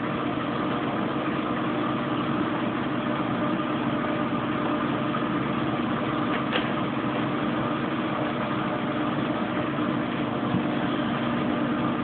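Kenmore Oasis top-load washing machine in its spin cycle, spinning smoothly: a steady motor-and-drum whir with a constant hum, and one brief tick about six and a half seconds in.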